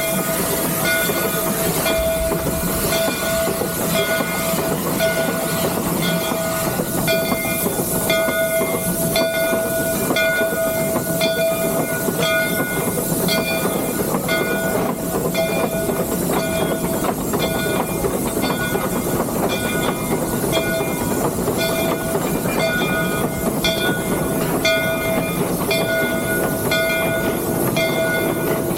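Three-truck Shay geared steam locomotive running, heard from inside its cab: a steady noisy rumble and hiss with a constant tone. A short ringing sound repeats about once a second.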